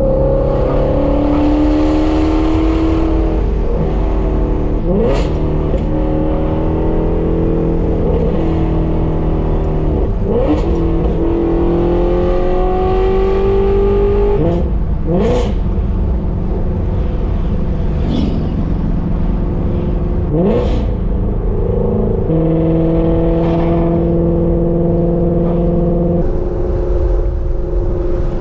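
Shelby GT350's flat-plane-crank V8 running loud through Kooks long-tube headers and a catted competition exhaust as the car drives through the gears. The engine note steps at each gear change, with a short sharp blip at each change about every five seconds.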